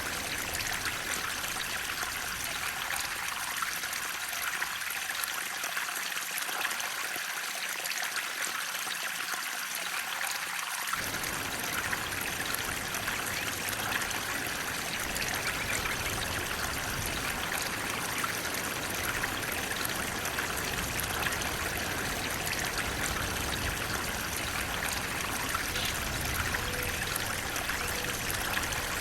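Flowing water running steadily, an even splashing rush. The deeper part of the sound fades out for several seconds and returns abruptly about eleven seconds in.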